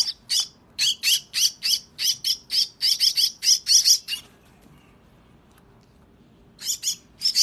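Crested myna chick giving rapid, shrill begging calls, about five a second, as it is hand-fed. The calls stop for about two seconds past the middle, then start again near the end.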